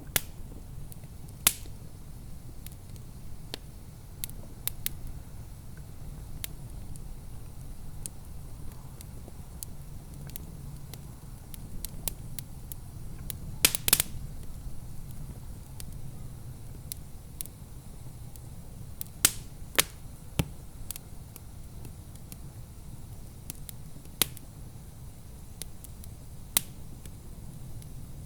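Wood fire crackling in a fireplace: irregular sharp pops and snaps over a low, steady rumble, with the loudest pops about halfway through.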